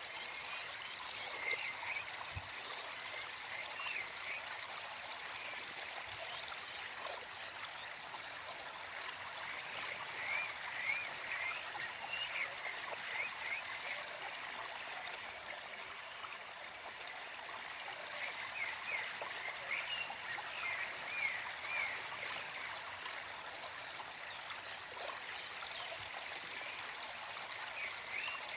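Small forest stream flowing steadily, with a bird singing short phrases of quick chirps, about three times, and a few brief high trills over the water.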